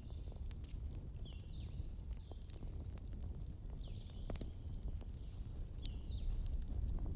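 Wood fire crackling: a steady low rumble with scattered sharp pops and snaps.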